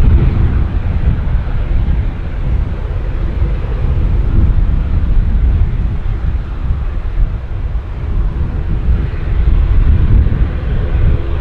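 Airliner engines rumbling loudly as a plane passes low overhead near the runway, with a faint steady hum in the first few seconds that fades away.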